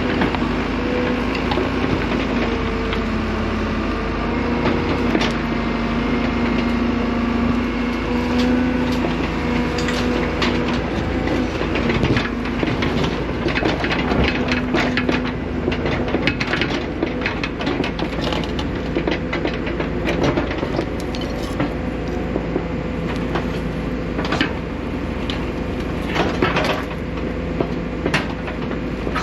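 Excavator digging in rocky ground: its engine runs at a steady pitch while the bucket and tracks give off many metallic clanks, knocks and scrapes, which come thicker in the second half.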